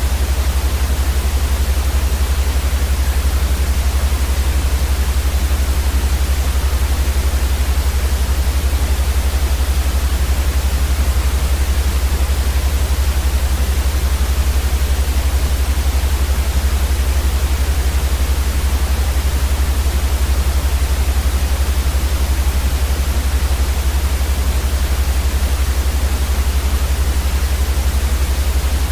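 Steady white noise for sleep, an even hiss across the whole range with a strong deep rumble beneath it, unchanging throughout.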